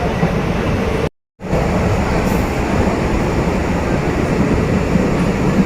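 MEMU electric train running, a steady low rumble and rattle heard from inside the coach. The sound cuts out completely for a moment about a second in.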